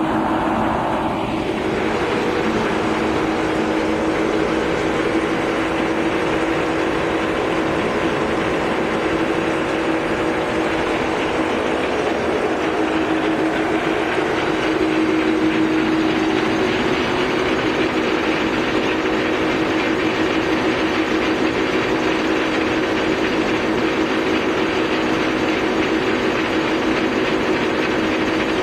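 Poreba TCG 160 engine lathe running steadily under power, a continuous mechanical noise with a few held tones from its drive and gearing.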